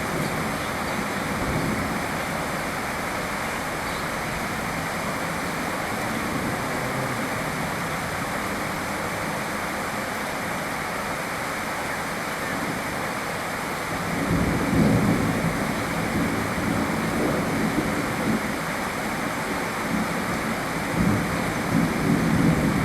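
Steady rain falling, with rolls of thunder rumbling in about two-thirds of the way through and again near the end.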